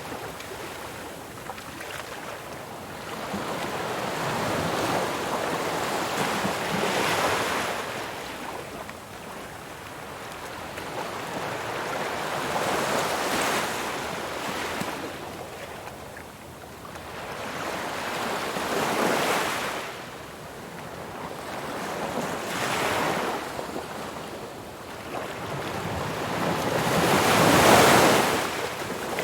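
Ocean waves breaking and washing on a shore, the surf swelling and ebbing about every five or six seconds, the loudest wave near the end.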